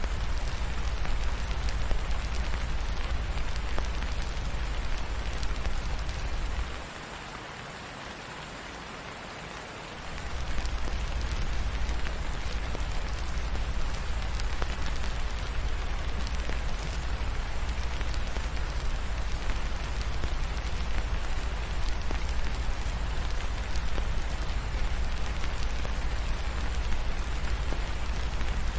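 Steady rain falling, an even hiss with a low rumble underneath. The rumble drops out for about three seconds a quarter of the way in, then returns.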